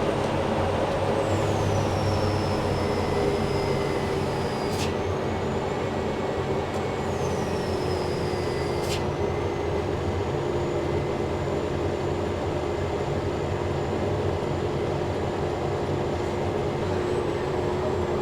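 Cummins diesel engine of a self-propelled sprayer running steadily under way, heard from inside the cab. A faint high whine sinks in pitch twice, and there are two sharp clicks a few seconds apart.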